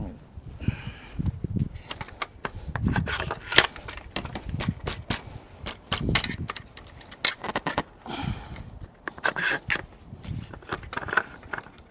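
Irregular clicks, taps and short scrapes of hand tools and metal parts as the brake levers on a bicycle handlebar are loosened, turned and tightened.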